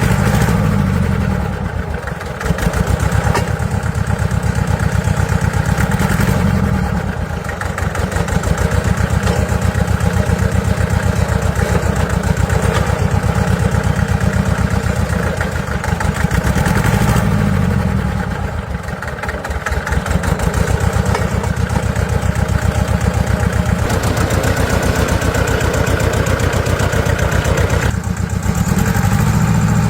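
Engine of a restored off-road vehicle running steadily at idle, its note dipping and picking up again a few times.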